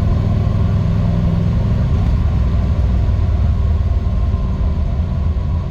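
1955 Chevrolet Bel Air under way in a lower gear: a steady engine and exhaust rumble with a thin, steady whine from the manual transmission. The owner suspects the whine comes from the input shaft, countershaft and gear set, with the case hardening coming off the gears.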